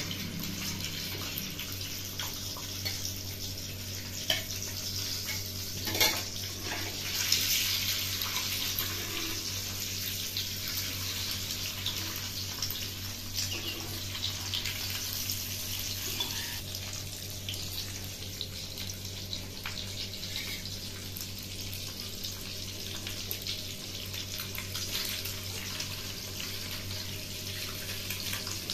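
Halved boiled eggs sizzling in hot oil in a metal kadhai, a steady hiss, with a metal spatula now and then clinking and scraping against the pan, the sharpest knock about six seconds in.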